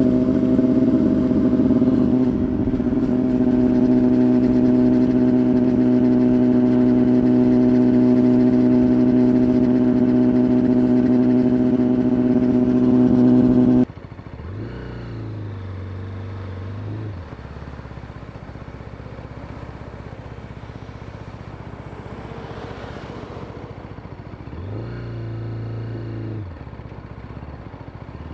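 BMW S1000RR inline-four through an Arrow exhaust, holding a loud, steady engine note. About halfway through the note cuts off abruptly to a quieter idle, with two short throttle blips about ten seconds apart.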